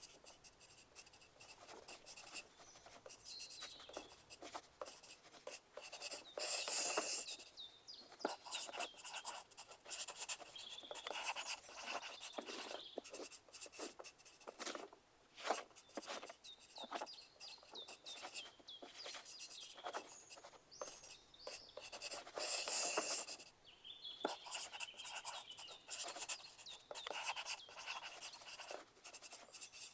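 Pencil writing on paper: irregular scratching strokes and light taps of the lead, with a few busier, louder stretches of steady scribbling.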